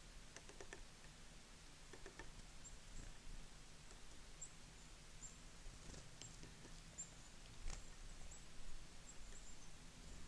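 Small songbirds at a feeder giving many short, very high chips, faint and scattered, with a few sharp taps and clicks among them.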